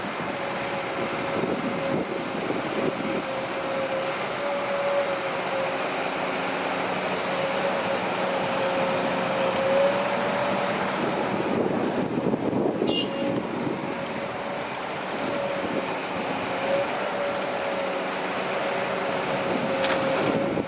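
Heavy diesel earth-moving machinery running steadily, with a steady whine that wavers slightly in pitch. A few brief high chirps come about twelve seconds in.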